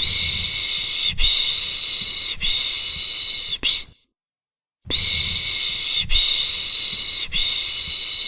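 A person making the rhythmic 'shh shh' (piş piş) shushing sound used to soothe a baby. Each run has about three long hissing shushes and a short one, with a pause of about a second between runs.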